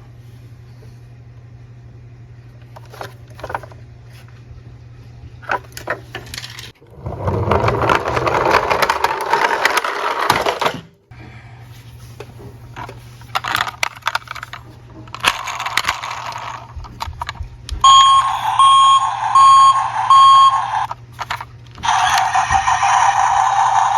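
Toy cars clicking and rattling, with a longer rolling rattle about seven to ten seconds in. Later there are short electronic beeps in a quick series, then a steady warbling electronic siren-like tone near the end.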